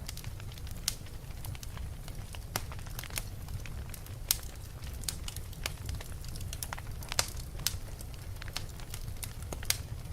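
Wood fire burning in a fireplace, crackling and popping with irregular sharp snaps over a steady low rumble of the flames.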